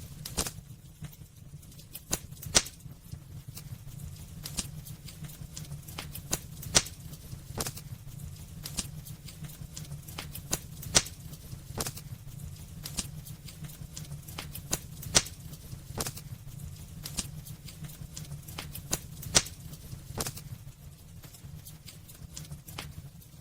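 Wood fire burning in a fireplace: irregular sharp crackles and pops from the burning logs, a few loud ones every couple of seconds, over a steady low rumble of the flames.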